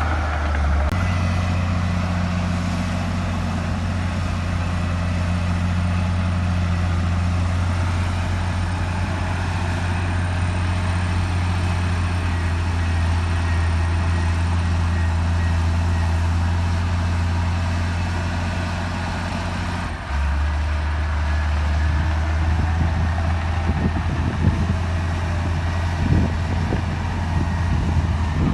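Diesel engine of heavy earthmoving machinery running steadily, its low note stepping up about a second in and dropping back about twenty seconds in, with a few short clanks near the end.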